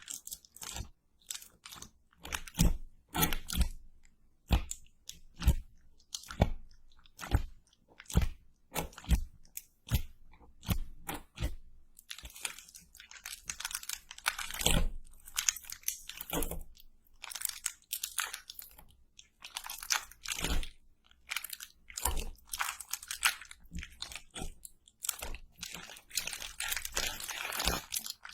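Close-miked crunching and chewing of crispy fried food: a quick, irregular run of sharp crunches, with denser crackling stretches partway through and near the end.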